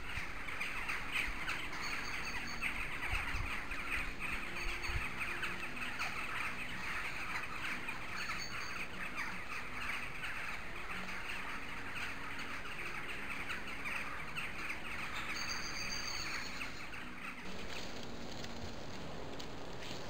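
A few short, high whistled bird calls over a steady, dense high hiss of outdoor background. The background changes abruptly near the end.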